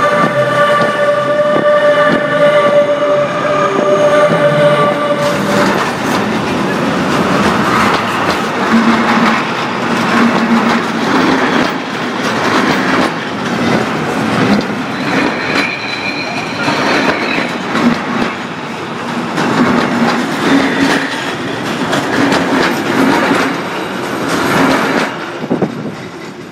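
Freight train wagons rolling directly overhead on the track, heard from between the rails: a heavy rumble with rapid clattering of the wheels. A steady high tone sounds over the first five seconds and a shorter high squeal near the middle, and the noise fades near the end as the last wagon passes.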